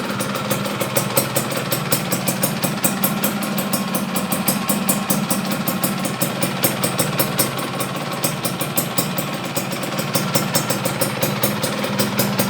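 Yamaha F1ZR's two-stroke single-cylinder engine idling steadily through a WRS standard-racing exhaust, with an even pulsing beat.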